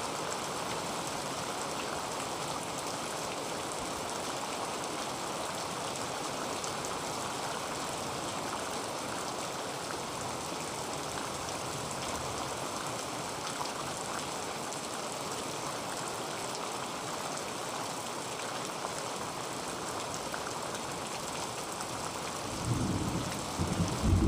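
Heavy rain drumming steadily on a tin roof, a dense hiss with countless small drop taps. Near the end, a low rumble of thunder swells in and becomes the loudest sound.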